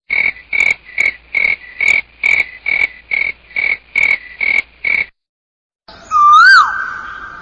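A fast, even series of twelve croaking calls, about two and a half a second, that stops abruptly. After a short break comes a loud whistled note that rises, falls and then holds.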